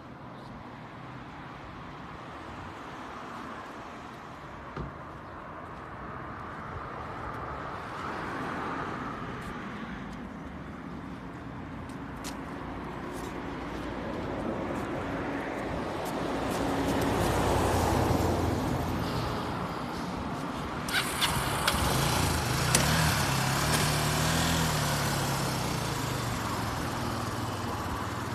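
Kawasaki 250TR's single-cylinder four-stroke engine running at idle, then revved up and back down several times in the second half.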